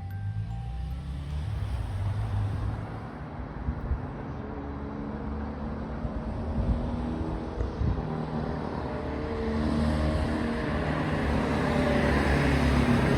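Steady low rumble of a running vehicle, growing louder over the last few seconds, with a faint engine hum.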